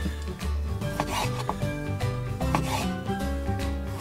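Kitchen knife sawing and slicing through raw beef on a bamboo cutting board, a series of rasping strokes, over background music with a slow, steady bass line.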